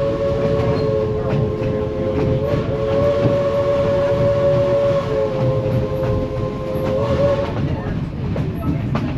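Steam locomotive whistle sounding one long blast of several notes together, cutting off about seven and a half seconds in. Under it is the steady rumble and clatter of the narrow-gauge passenger train rolling on the rails.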